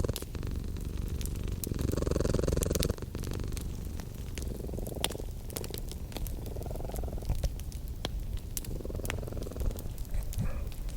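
Domestic cat purring in slow swells that rise and fall about every two seconds with its breathing, over the sharp snaps and pops of a crackling wood fire.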